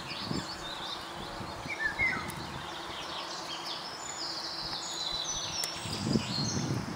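Songbirds singing and chirping, many short high whistled notes one after another. Low rustling starts near the end.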